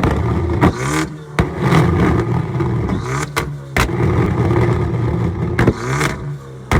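A car engine being revved repeatedly, its pitch swinging up and down about three times. Several sharp cracks come between the revs.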